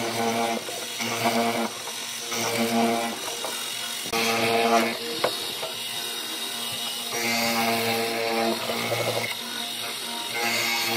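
A power tool's motor running in short repeated bursts, a steady hum at one fixed pitch that starts and stops every second or so, with a sharp click about five seconds in.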